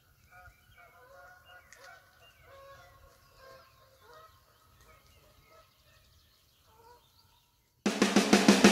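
Faint bird calls, short calls repeated every half second or so, then music starts abruptly and loudly just before the end.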